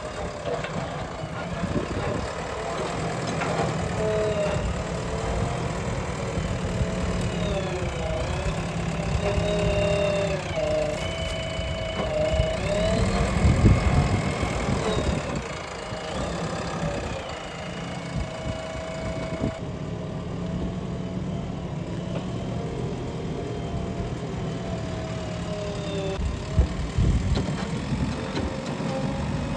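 Diesel engine of a JCB-type earth-moving machine running steadily, its pitch dipping and recovering several times as the engine takes load. A few sharp knocks come near the start and near the end.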